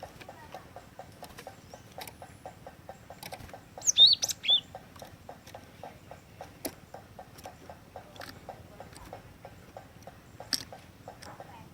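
Cinereous tit (gelatik batu) giving a brief burst of loud, sharp, high calls about four seconds in, and a single short note near the end. Under it runs a steady, rapid ticking of about four to five ticks a second.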